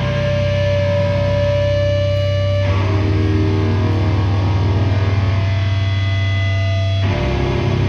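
Heavy band playing live through a PA: distorted electric guitar and bass holding long, droning chords over a heavy low end, changing chord abruptly about three seconds in and again near the end.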